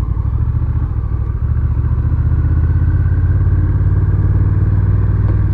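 Honda Rebel 1100's parallel-twin engine running at low road speed, a steady low pulsing exhaust note that picks up slightly about a second and a half in.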